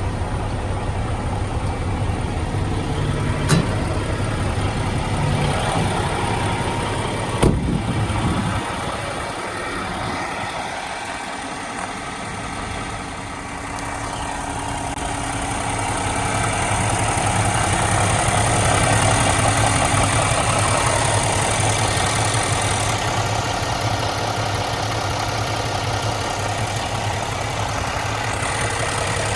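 Truck's Cummins X15 diesel engine idling steadily, with two sharp clicks, one a few seconds in and one about seven seconds in. The engine sound dips for a few seconds about a third of the way through, then grows louder.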